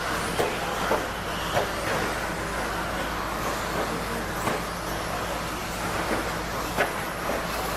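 1/10-scale electric stadium trucks with 13.5-turn brushless motors racing: a steady wash of motor whine and tyre noise, broken by sharp clacks every second or so.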